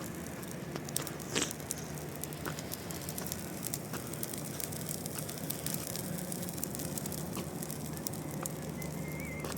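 Irregular crackling: many small sharp clicks scattered over a low steady hum.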